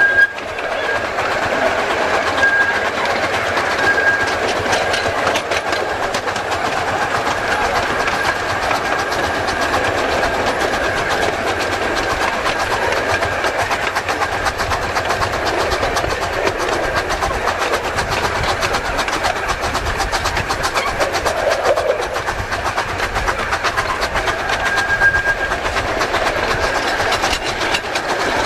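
A 15-inch gauge live-steam park train running along the track, heard from the locomotive's tender: a steady running noise with a dense patter of clicks from the wheels on the rails. A thin high tone sounds faintly near the start and again near the end.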